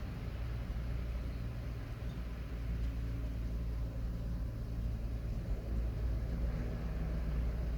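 Car driving along a road: a steady low rumble of engine and tyres with an even hiss over it.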